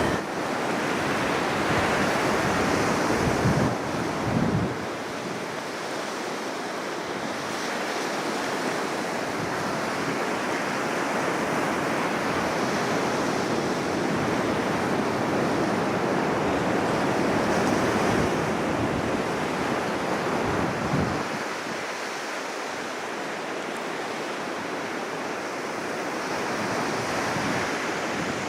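Ocean surf washing onto a beach, a steady rush that swells and ebbs slowly, with wind buffeting the microphone in the first few seconds and again about twenty seconds in.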